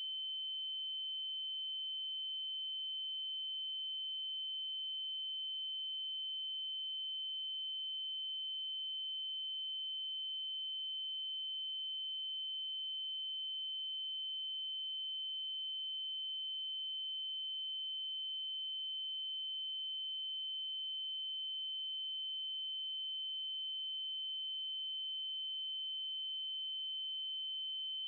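Synthetic 3072 Hz triangle-wave test tone, a steady unbroken high-pitched pure tone with faint overtones above it.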